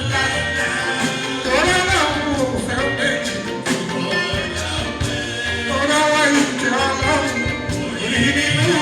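Live Fuji music: a singer's voice gliding over a dense band with steady drums and percussion.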